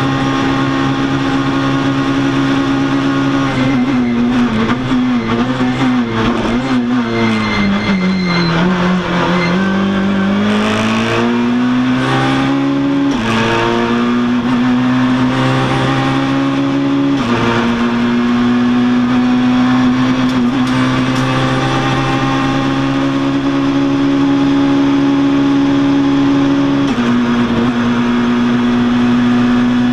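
A Citroën rally car's engine, heard from inside the cabin and running hard. About a sixth of the way in, the note falls steadily for several seconds as the car slows and shifts down. It then climbs again through the gears, with upshifts about halfway and a little later. After that it holds a high, steady note, with one short step down near the end.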